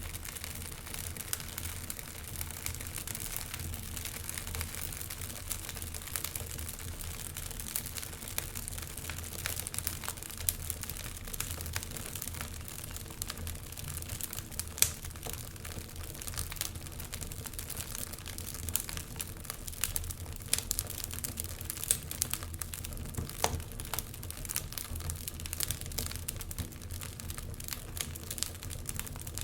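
Wood fire crackling steadily, with many small snaps and pops and one louder pop about halfway through, over a low, steady rumble of winter wind.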